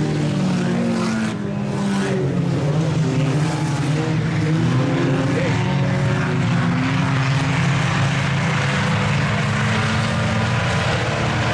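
Several IMCA Sport Compact four-cylinder race cars running at speed in a pack, their engines making a steady, overlapping drone with small shifts in pitch.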